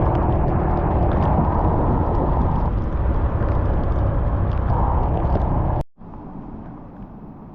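Scooter ride noise: loud wind buffeting on the microphone over the motor and tyre rumble. It cuts off abruptly about six seconds in, then continues as a much quieter hiss.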